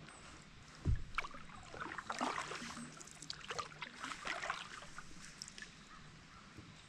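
Paddle strokes splashing in river water, with a dull thump about a second in.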